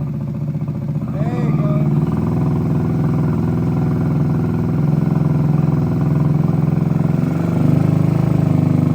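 Moped's newly swapped-in small engine running steadily at idle, getting a little louder briefly near the end.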